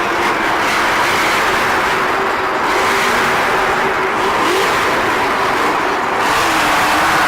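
Monster truck engines running loud in a steady din, with a brief rise in pitch about four and a half seconds in.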